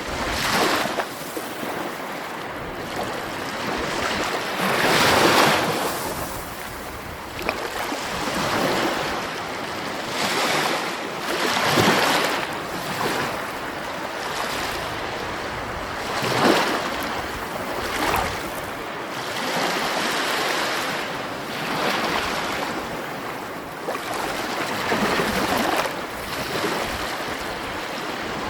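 Sea waves rushing and breaking, with a swell surging up and falling away every few seconds over a continuous wash of surf.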